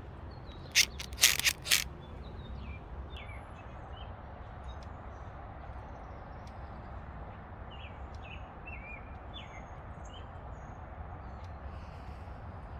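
A broken aftermarket car door lock actuator handled and shaken, giving a few sharp rattling clicks about a second in; the owner suspects something loose inside it. Birds chirp faintly afterwards.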